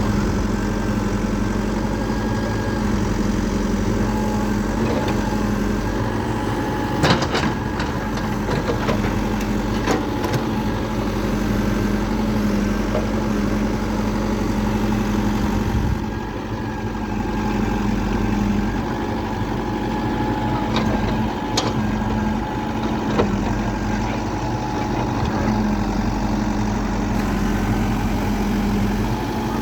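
An engine running steadily, with a few sharp knocks or clicks now and then.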